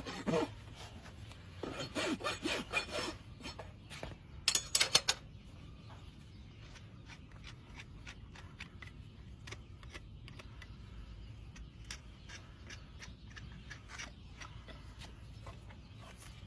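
Farrier's rasp filing a horse's hoof: several scraping strokes in the first five seconds, the loudest near the five-second mark, then fainter scraping.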